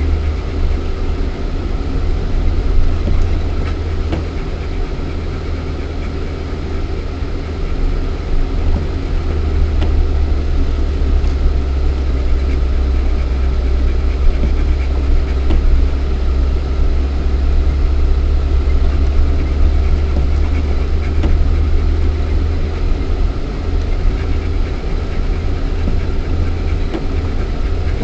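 Lada Niva 4x4's 1.7-litre four-cylinder petrol engine and drivetrain droning steadily, heard from inside the cabin while driving off-road. A strong low hum eases off slightly a few seconds in, then picks up again.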